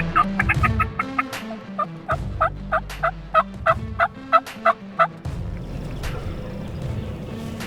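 Wild turkey yelping: a long run of short, evenly spaced yelps, about four a second, that stops about five seconds in, with a low hum underneath.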